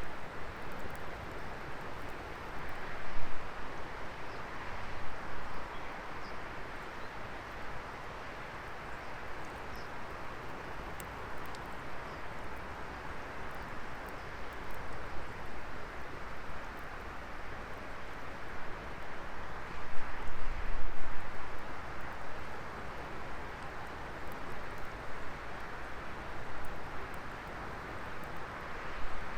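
Wood campfire burning with a steady rushing hiss and sparse faint crackles. There are louder low rumbles of wind on the microphone about 3 seconds in and again about 20 seconds in.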